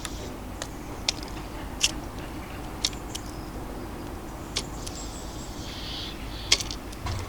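Sharp, irregular taps and clicks of birds pecking and landing at a garden bird feeder, over a steady low hum of distant city traffic. A faint high bird call comes in about five seconds in, and a dull thud sounds near the end.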